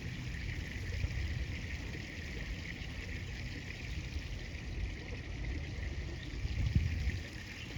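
Steady rush of flowing river water, with a low uneven rumble underneath and a slightly louder bump near the end.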